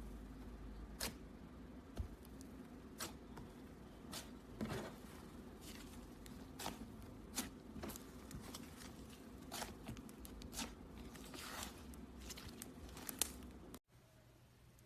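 Hands pressing, poking and stretching butter slime: irregular soft sticky clicks and squelches over a low steady hum, cutting off abruptly near the end.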